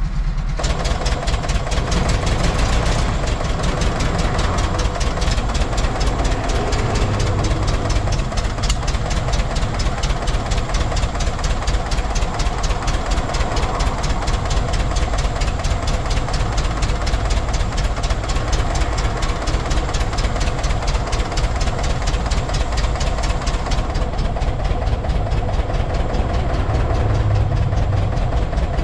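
Air-cooled Volkswagen Bus flat-four engine running at idle with an even, rapid pulse, freshly fitted with new points and condenser while its ignition timing is set at the distributor.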